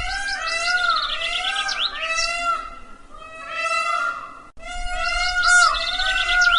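Peacock calling over and over in short, arching, cat-like notes, with small birds chirping high over it. The calls break off briefly about halfway through, then start again.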